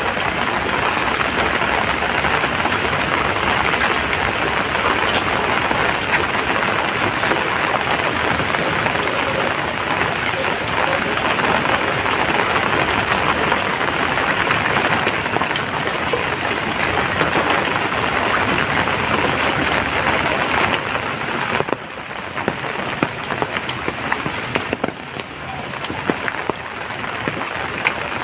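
Heavy rain falling steadily, a dense hiss of many drops. It eases somewhat about three quarters of the way through, then picks up again.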